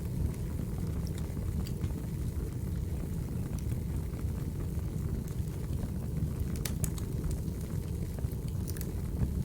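Recorded log-fire sound: a steady low rumble of burning wood with scattered sharp pops and crackles, a few of them bunched about two-thirds of the way through and again near the end.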